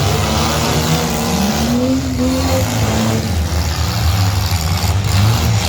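Several mid-size pickup truck engines running hard and revving in a race, with one engine's pitch rising about two seconds in.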